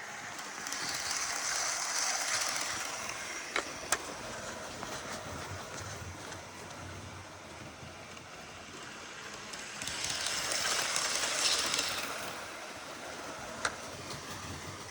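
Model train running on its track, the rattle of wheels and motor swelling as it passes close by twice, about a second in and again near ten seconds, with a few sharp clicks over the rail joints.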